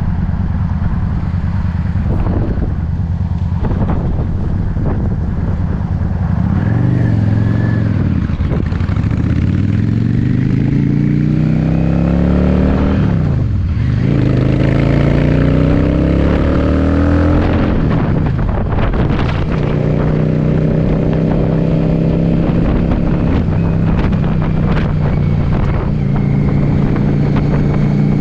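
Yamaha V-Star motorcycle's V-twin engine under way, its pitch climbing and dropping sharply twice in the middle as it shifts up through the gears, then holding steady at cruise. Wind rumbles on the microphone underneath.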